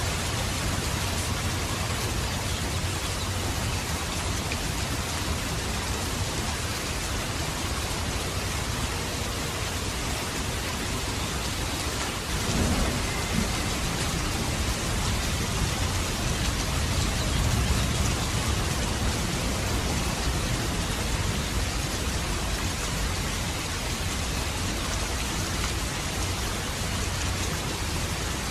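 Steady rain falling in an even hiss, with low rumbles swelling briefly about halfway through and again a few seconds later.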